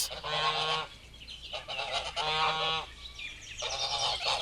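Goose honking: about four separate calls in a row, each under a second long.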